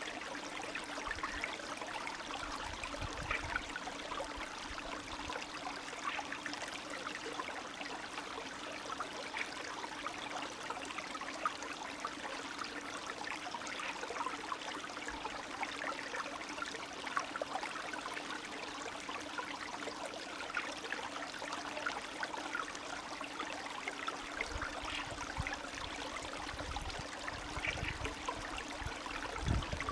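Spring stream running and trickling steadily, a constant babble of water. A low rumble joins in over the last few seconds.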